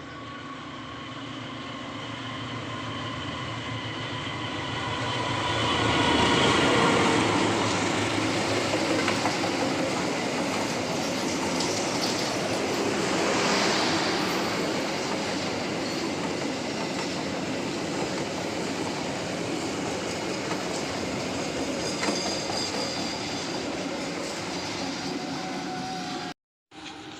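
A train passing close by. It builds up as it approaches, is loudest a few seconds in, then rolls past steadily with wheels clattering over the rail joints. The sound cuts off abruptly near the end.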